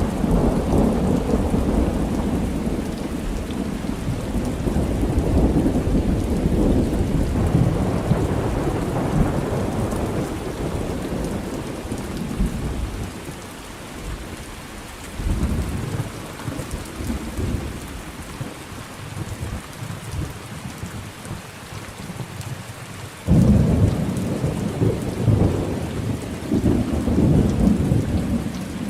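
Thunderstorm with steady heavy rain and rolling thunder: a long rumble through the first ten seconds or so, another at about fifteen seconds, and a sudden loud clap at about 23 seconds that keeps rumbling.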